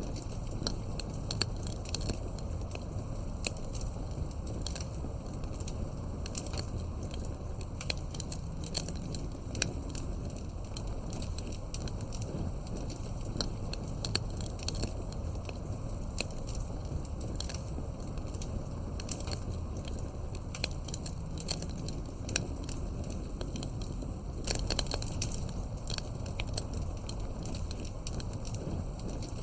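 Campfire crackling: frequent irregular sharp pops over a steady low rush.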